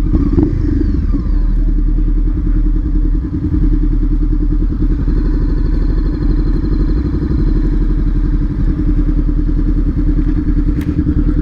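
Honda CBR500R's parallel-twin engine running at low revs as the bike rolls slowly, a steady, even low pulsing.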